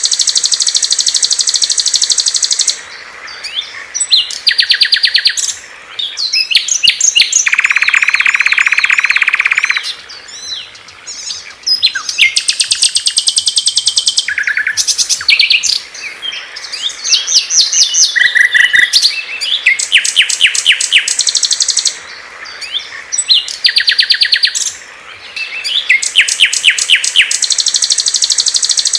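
Small songbirds singing in turn: long, rapid, high trills, buzzy repeated phrases and quick chirps, switching abruptly from one song to the next.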